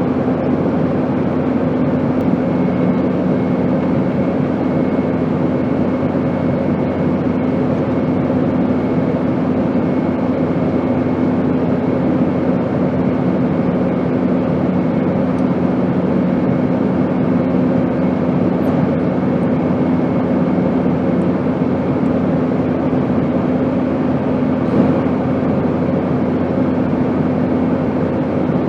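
Steady airplane noise: an even rushing hiss with a low, constant hum underneath and a faint high tone, unchanging throughout.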